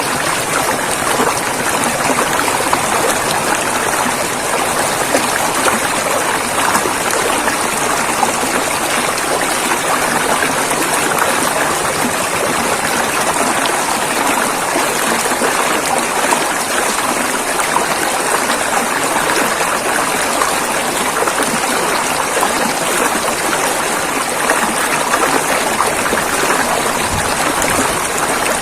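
River water rushing and flowing over rocks, a steady, even rush of water.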